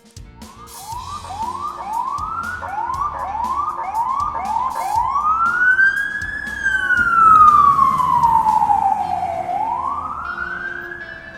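Emergency vehicle siren: a fast yelp of about nine quick rising sweeps, then a slow wail that climbs, falls over about three seconds and climbs again.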